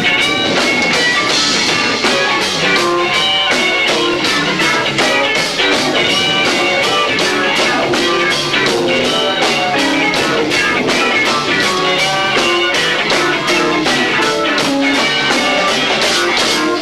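Live rock band playing loudly: electric guitar and bass over a steady, driving drum beat, heard lo-fi through a 1990s camcorder's built-in microphone. The song stops right at the end.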